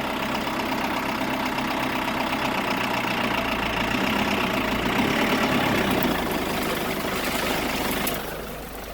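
A vehicle's engine running steadily, easing off about eight seconds in.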